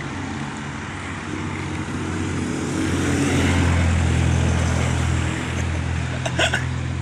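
A motor vehicle's engine hum swells as it approaches, peaks mid-way and then eases off as it passes. A short high squeak sounds near the end.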